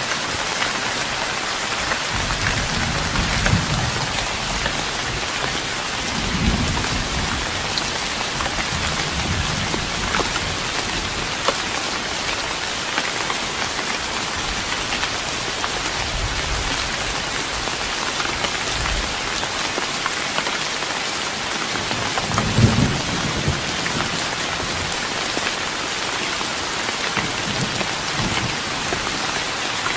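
Rain falling steadily on a wooden deck, an even patter throughout. A few brief low rumbles come through it, the strongest about 22 seconds in.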